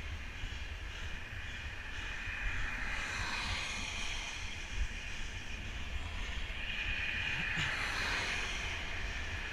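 Wind rumbling on the microphone over a steady hiss of wet road noise, which swells about three seconds in and again near the end.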